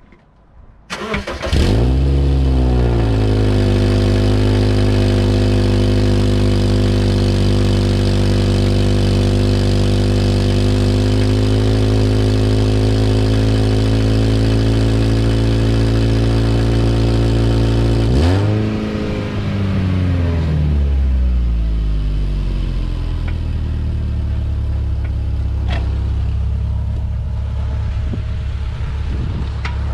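Subaru flat-four engine cranked by the starter and catching about a second and a half in, rising to a fast idle that runs steady. About two thirds through, the revs jump once and then settle to a lower idle. Its broken exhaust pipe is newly joined with a stainless butt-joint band clamp, and the owner judges the exhaust note not perfect but much improved.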